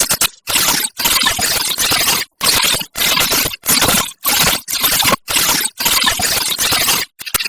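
Sparrow calls in a loud, harsh recording: about a dozen bursts of rapid chattering, each roughly half a second long, with short breaks between.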